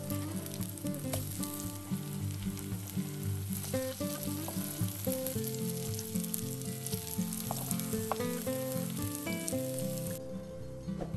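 Carrot and zucchini fritters sizzling as they shallow-fry in olive oil in a pan. The sizzling cuts off about ten seconds in.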